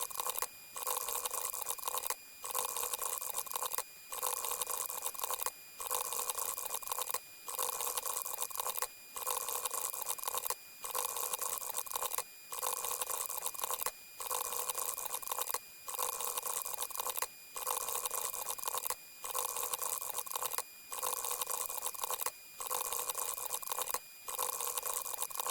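A short, noisy rushing sound effect, repeated over and over with a brief break about every 1.7 seconds.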